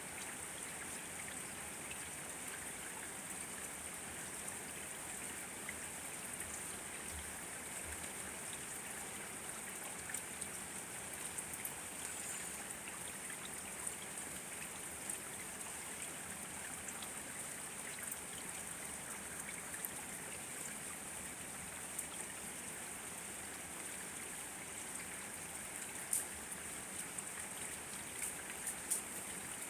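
Steady rain falling: an even hiss with scattered sharper drop ticks, a few louder ones near the end.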